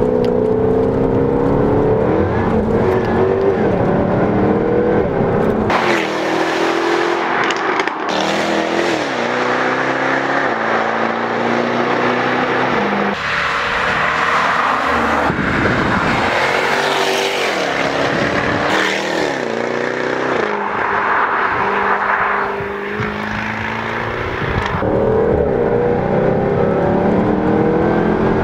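Jaguar F-Type R's supercharged 5.0-litre V8 under hard acceleration. Its pitch climbs through each gear and drops back at every upshift, again and again, with the engine loud throughout.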